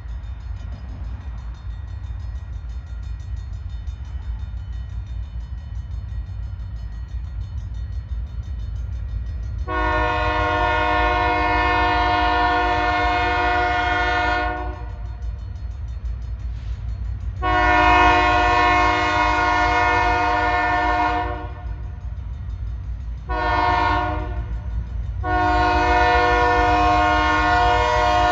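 Diesel locomotive horn on a Keokuk Junction Railway freight train sounding the grade-crossing signal: two long blasts, a short one, then a long one, over a steady low rumble of the passing train. The horn starts about ten seconds in.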